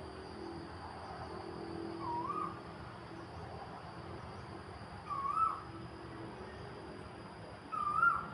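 A bird calling a short, wavering note three times, about three seconds apart, over a steady background hiss and a thin, high insect drone.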